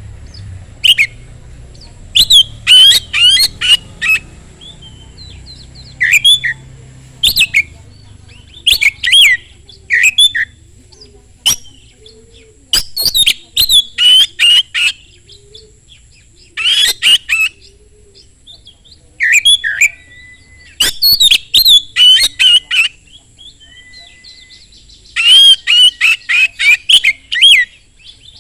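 Oriental magpie-robin (kacer) singing loudly in fast clusters of sharp whistled and chattering notes, each burst about one to three seconds long, with short pauses between bursts.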